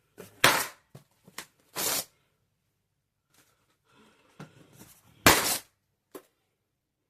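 Latex balloons popping: two loud, sharp pops about five seconds apart, with a shorter burst near two seconds in and faint rubbing and handling of the balloon between them.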